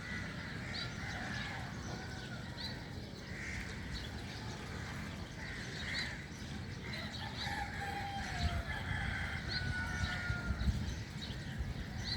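A dawn chorus of birds, many short chirps and repeated calls, with a rooster crowing in the distance. A steady low rumble runs underneath and swells about eight seconds in.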